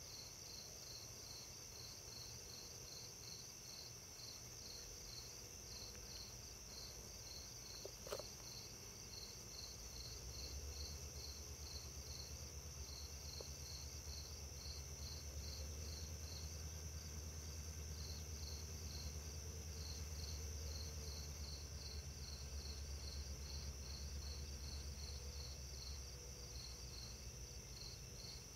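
Insects chirping: a continuous high buzz with a pulsing chirp about twice a second. A low rumble swells in about a third of the way through and fades near the end, and a single sharp click comes about eight seconds in.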